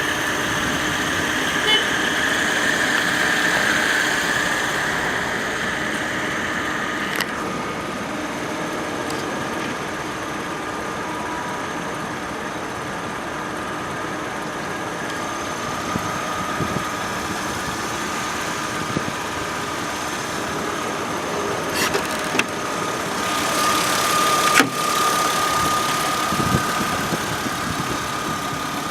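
Mercedes-Benz ML 320's 3.2-litre V6 idling steadily, with a few sharp clicks about seven seconds in and again near the end.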